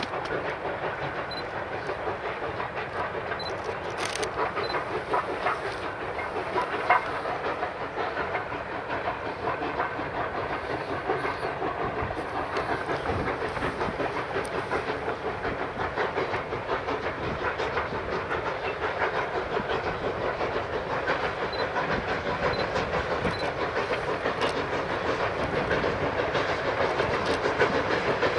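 Narrow-gauge steam-hauled freight train rolling past, a steady clatter and rumble of car wheels on the rails, with one sharper knock about seven seconds in. The sound grows a little louder toward the end.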